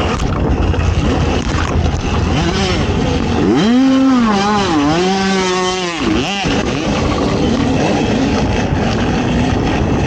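ATV engine running hard under a loud rush of noise; a few seconds in its pitch climbs, holds with a brief dip, then drops away after about three seconds as the throttle is worked.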